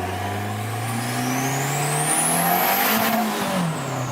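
Car engine revving up for about three seconds, with a high whine climbing in pitch alongside it, then easing off as the pitch falls.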